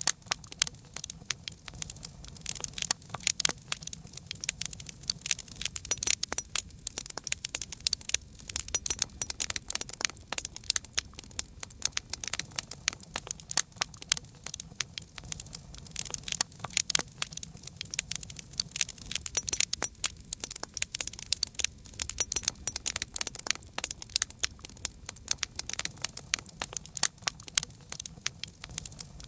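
Campfire crackling steadily: dense, irregular pops and snaps of burning wood over a soft low rumble of the flames.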